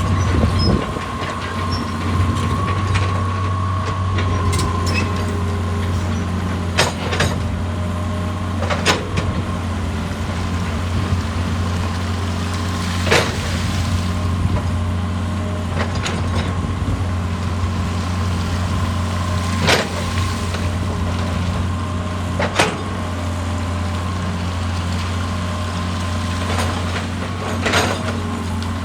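Heavy diesel machine running steadily with a constant low drone, and sharp knocks of rock or metal every few seconds.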